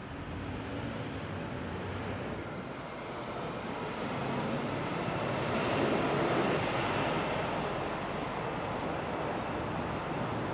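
City street traffic noise: a steady rumble that swells to its loudest about halfway through as a vehicle passes, then eases a little.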